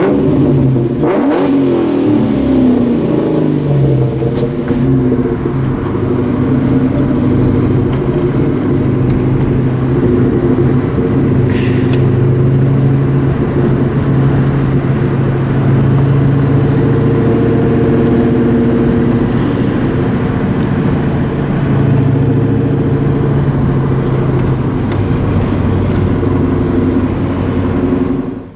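Exhaust of a 2004 Mustang SVT Cobra's supercharged 4.6-litre V8, through Borla Stinger mufflers and an off-road X-pipe, running loud and steady. The revs rise and fall in the first few seconds, then hold with small changes in engine speed.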